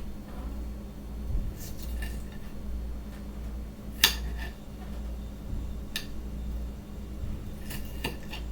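Kitchen utensils and dishes clinking and knocking: a handful of separate sharp clinks, the loudest about four seconds in, over a steady low hum.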